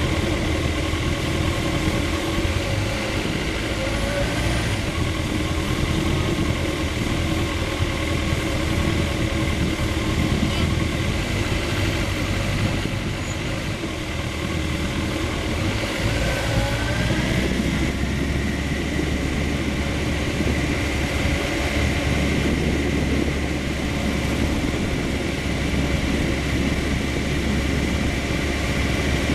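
Sport motorcycle's engine running steadily at low speed while filtering between cars, with wind rushing over the microphone. The low rumble grows heavier about halfway through.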